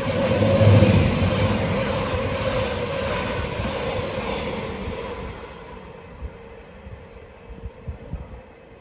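A train passing at speed, loudest about a second in, then fading away over the next few seconds as it recedes.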